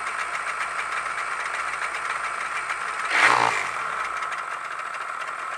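A Yamaha YPVS two-stroke motorcycle engine idling steadily, with one brief louder surge about three seconds in.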